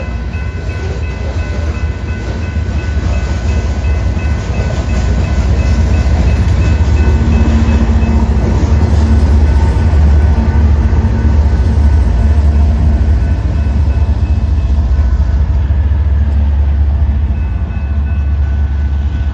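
BNSF grain freight train rolling past: a heavy low rumble that builds to its loudest about halfway through and then eases, with several steady high tones running over it.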